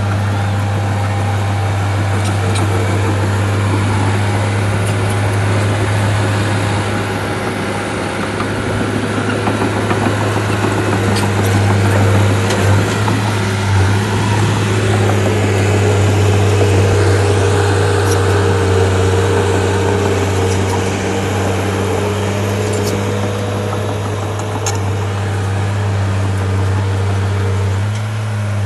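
Shantui bulldozer's diesel engine running steadily with a low drone that swells a little midway, with a few light clanks.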